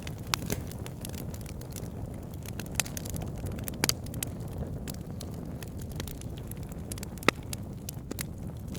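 Burning logs in a wood fire: a steady low rumble with scattered sharp crackles and pops, the loudest pop about seven seconds in.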